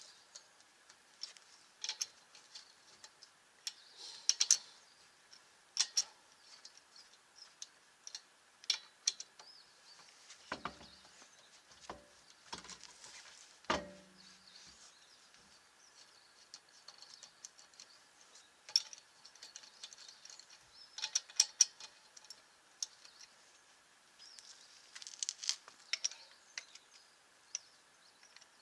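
Scattered light clicks and clinks of tools and parts being handled, with a few duller knocks about halfway through; no impact wrench running.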